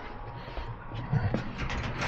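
Light mechanical clicks and knocks from hands working with tools and cable parts, a few sharper knocks in the second second.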